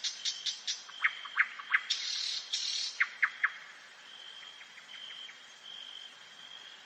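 Nightingale singing: quick sharp clicking notes and short falling whistles, a loud buzzing rattle about two seconds in, then softer high notes repeated more thinly in the second half.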